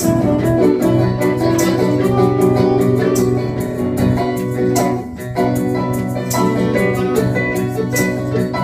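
Live band playing an instrumental break of a blues-rock song in B minor, with keyboard and guitar over a steady beat and no singing.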